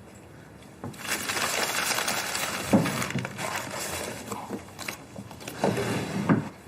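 Rustling, crinkling noise with scattered small clicks, starting about a second in and stopping shortly before the end.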